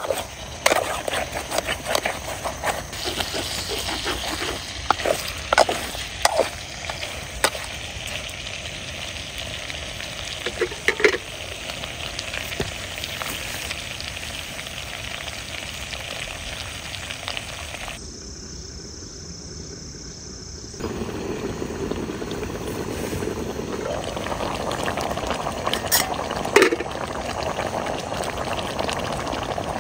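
Food frying and sizzling in a pan, with scattered clicks and scrapes from stirring. The sizzle drops away for a few seconds past the middle, then comes back.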